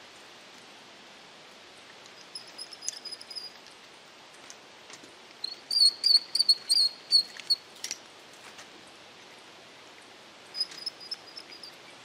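A songbird singing three short phrases of quickly repeated high chirps: one about two seconds in, a longer and louder one in the middle, and a shorter one near the end.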